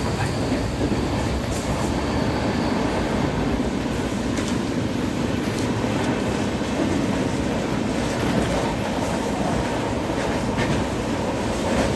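Indian Railways passenger coach heard from inside while the train runs: a steady rumble of wheels on the track, with a few short sharp clicks scattered through it.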